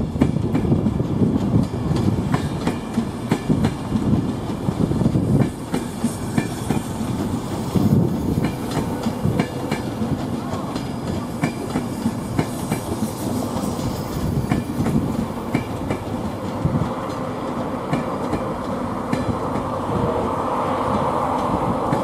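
A train running past on the main line: a steady low rumble with wheels clicking over the rail joints, and a steady hum coming in about three-quarters of the way through.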